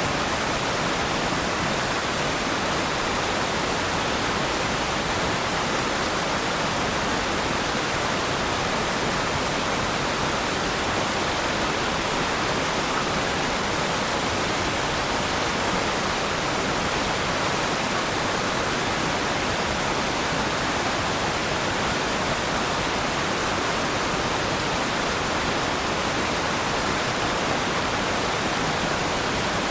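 Waterfall: water falling and splashing in a steady, even rush, strongest in the middle and upper pitches.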